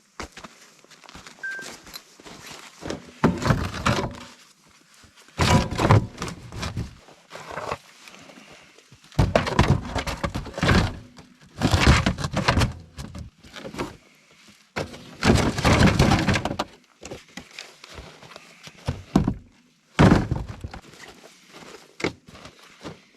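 A series of irregular thuds and crunching knocks, about a dozen, each lasting under a second to about a second, with quiet gaps between.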